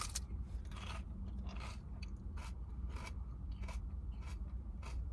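Crunchy lettuce being chewed close to the microphone, a crisp crunch about every two-thirds of a second, over a steady low hum.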